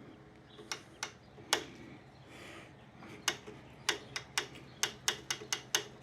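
Fuel pump priming lever on a 1929 International Model M 1.5 hp engine being worked by hand: a run of sharp clicks, three spaced ones at first, then a quicker series of about two to three a second from about halfway in. The brand-new pump is not yet drawing fuel.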